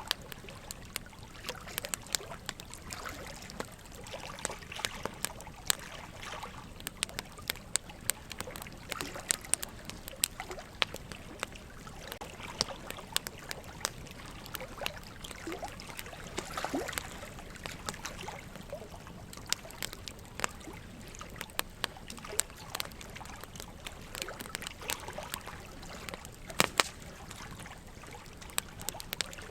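Wood fire crackling with frequent irregular sharp pops over a steady trickle of running water, with one louder pop near the end.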